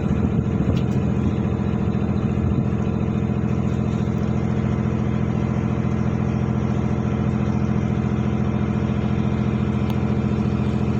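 A ship's engine running at a steady, unchanging pitch, a low drone, while the vessel manoeuvres to berth.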